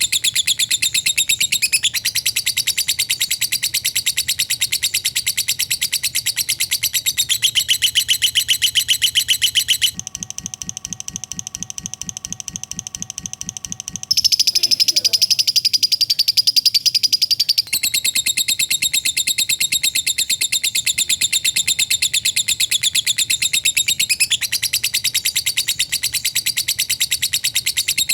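Lovebird giving its long 'ngekek' chatter: a fast, unbroken run of high, rapidly repeated notes. About ten seconds in it drops to a quieter, lower stretch. Around fourteen seconds it comes back louder and harsher, then settles into the fast run again.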